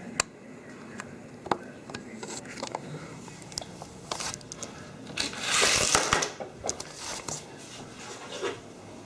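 Scattered clicks and knocks of objects being handled, with a louder rustle for about a second, around five seconds in.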